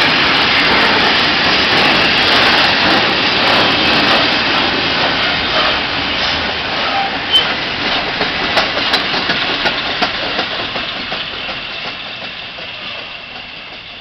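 Open freight wagons rolling past on the rails, a dense rumbling clatter of wheels that fades steadily in the second half as the end of the train moves away, with a few sharp clicks about halfway through.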